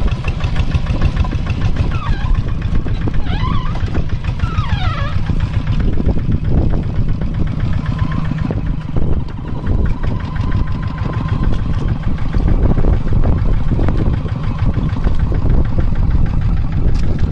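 Kubota tractor's diesel engine running steadily with a fast low knocking beat, working a wet rice paddy with a moldboard plow.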